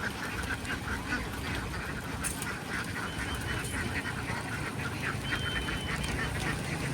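A large flock of domestic ducks quacking, with many short calls overlapping in a continuous chatter.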